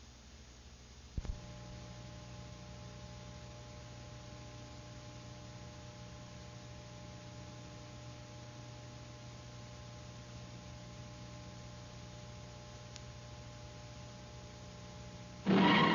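Old film soundtrack running with a steady electrical hum and hiss, with a sharp pop about a second in. Near the end, loud music with brass comes in suddenly.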